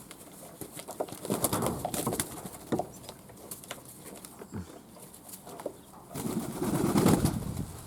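Fantail doves in their loft cooing and flapping their wings, with scattered small taps and clicks. The loudest stretch is a burst of sound starting about six seconds in and lasting over a second.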